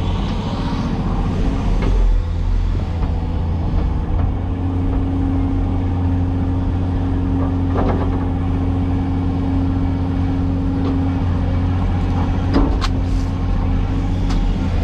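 Cat 336E excavator's diesel engine running steadily. A steady tone rides over it from about four seconds in until about twelve seconds in, and a few sharp clicks come near the end.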